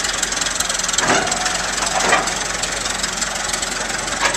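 Old Fordson tractor's engine running steadily, with a fast even firing beat.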